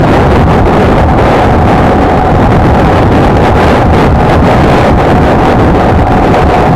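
Honda XLR125R single-cylinder four-stroke motorcycle engine running steadily while riding, under heavy wind noise on the microphone.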